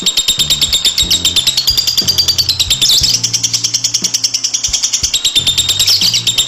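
Lovebird singing a long, unbroken 'ngekek' trill: a rapid chatter of high-pitched notes, about a dozen a second, without a pause.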